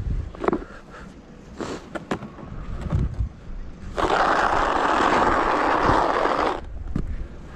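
A snow shovel scrapes along the ground in one long push of about two and a half seconds, starting a little past the middle. Low wind rumble on the microphone and a few knocks sit underneath.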